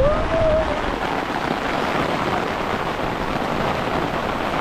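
Heavy rain pouring down in a steady, loud hiss. A brief rising whistle-like tone sounds right at the start.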